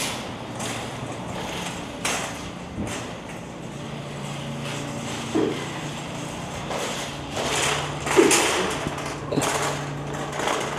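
Background noise at a busy store: a steady low hum with scattered knocks and clatters.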